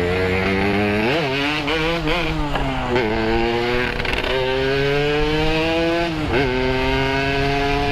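Yamaha RX-King's two-stroke single-cylinder engine through a Boban C33 aftermarket exhaust, riding under load with the revs climbing steadily. The revs drop sharply and pick up again about a second in, around three seconds in, and again near six seconds.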